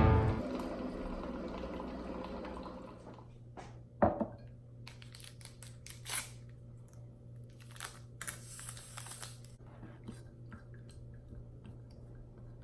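Distorted electric-guitar music fading out, then faint room tone with a steady low hum, one sharp knock about four seconds in, and a few small clicks and rustles of handling.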